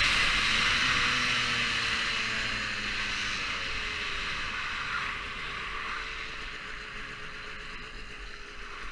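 Dirt bike engine running, its note slowly falling in pitch and fading, under a hiss that fades along with it.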